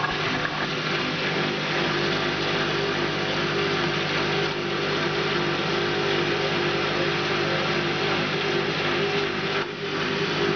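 Bosch WFK 2400 washing machine spinning, a steady motor hum and drum noise with a brief dip near the end. The 17-year-old machine has grown somewhat louder with age.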